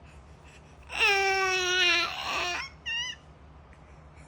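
Baby crying: one long wail about a second in, falling slightly in pitch, then a shorter rougher cry and a brief high wavering squeal.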